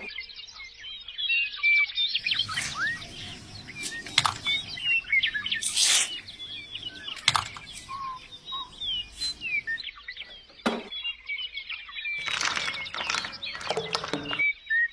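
A flock of small birds chirping densely, many short rising and falling calls overlapping, with several brief noisy rushes in between.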